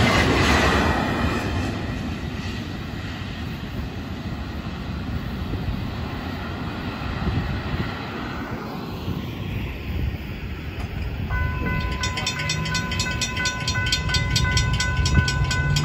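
Freight train's last well cars rolling past, the rail rumble fading over the first couple of seconds as the train clears the crossing. About eleven seconds in, the grade-crossing bell starts ringing in rapid even strokes as the gate arms lift.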